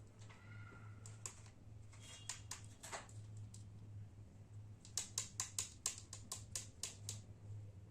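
Sharp clicks and taps like small hard objects being handled, a quick run of about a dozen, roughly five a second, in the second half, over a steady low electrical hum.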